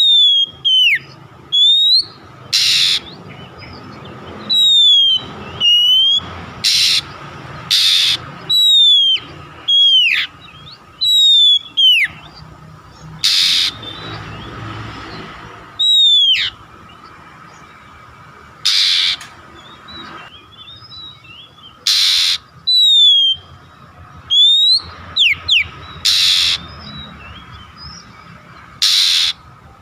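Oriental magpie-robin (kacer) calls: repeated loud whistles that slide downward, mixed with short harsh noisy calls, over a faint steady tone. It is a lure recording used to set kacer birds singing.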